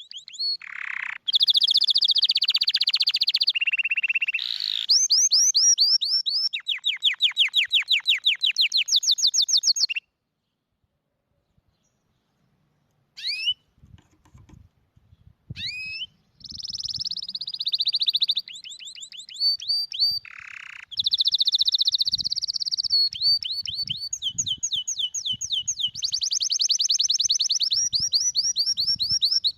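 Domestic canary singing: a long song built of rapid trills, each run repeating one high note many times before switching to another. The song breaks off about ten seconds in, gives a few short notes, and resumes with more trills for the rest of the time.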